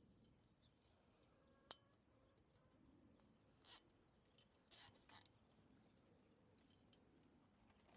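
Near silence broken by a sharp click and then three short snipping sounds, about a second and a half apart and then close together, from hand work on a wire cage.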